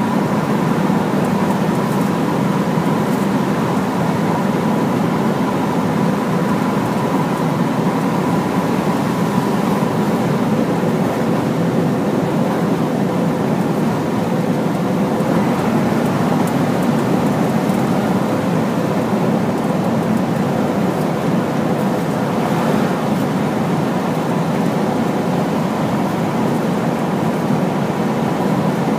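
Large Hino truck driving at a steady speed: continuous engine and road noise with a faint steady whine.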